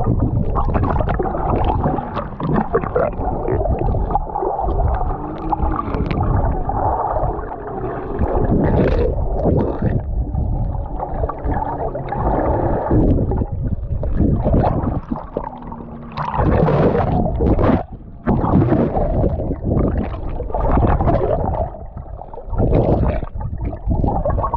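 Muffled sloshing and gurgling of water heard through a camera held underwater, rising and falling in level as the camera moves through the water.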